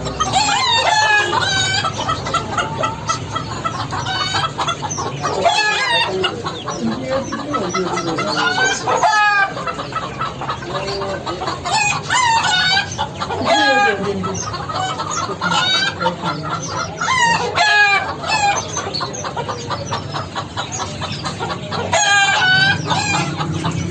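Many chickens clucking together, with roosters crowing about five times over it.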